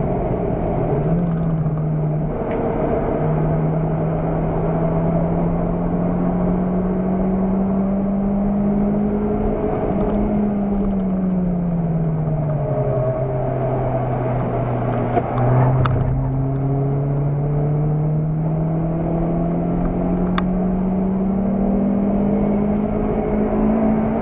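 Car engine heard from inside the cabin under hard track driving, over road and wind noise. The engine note drops briefly about a second in, then climbs steadily under acceleration. It falls away as the car slows around the middle, and after a short click about sixteen seconds in it climbs again.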